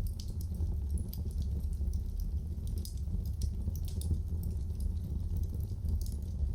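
Wood fire crackling in a fireplace: a steady low rumble of flames with frequent small, sharp crackles and pops at irregular intervals.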